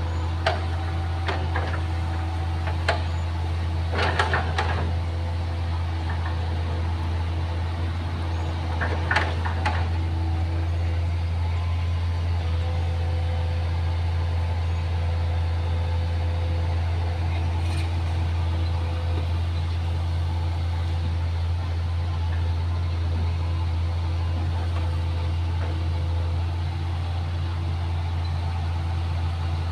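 Excavator's diesel engine running steadily, with several sharp knocks in the first ten seconds.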